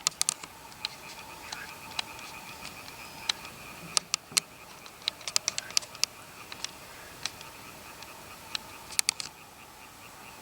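Irregular sharp clicks and ticks, loudest in clusters about four seconds in and near the end, over a steady chorus of frogs calling in the warm summer night.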